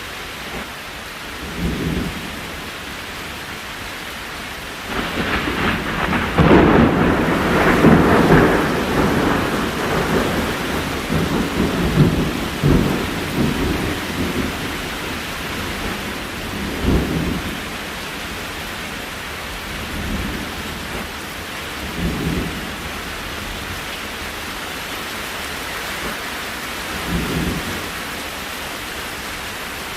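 Steady rain hiss with a long rolling rumble of thunder starting about five seconds in and dying away over some eight seconds. Several shorter, fainter low rumbles come and go later.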